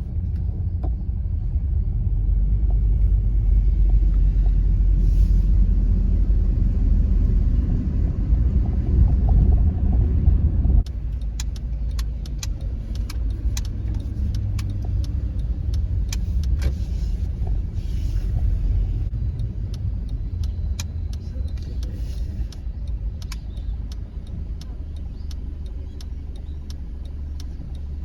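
Honda Freed's road and engine noise heard inside the cabin while driving: a steady low rumble, louder for the first ten seconds, that drops suddenly about eleven seconds in, after which scattered light clicks and ticks run through it.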